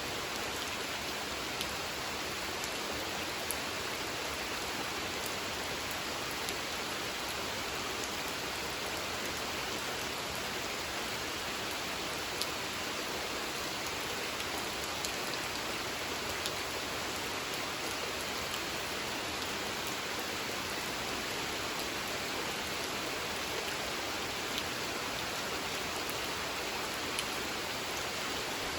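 Steady rain falling on a pond's water surface, an even patter with scattered individual drop ticks.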